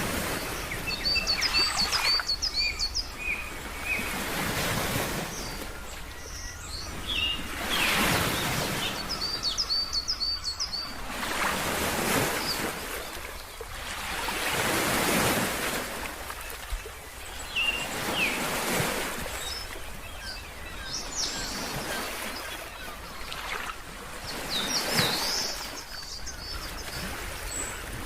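Ocean surf washing in, swelling and fading every three to four seconds, with a bird chirping in quick runs of short high notes a few times over it.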